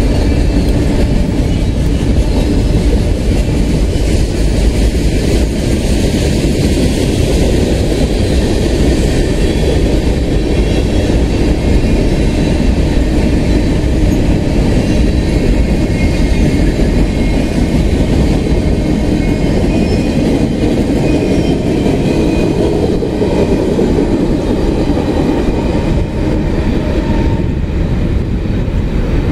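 Norfolk Southern freight train's cars, covered hoppers and others, rolling past on the rails: a loud, steady rumble of steel wheels on track.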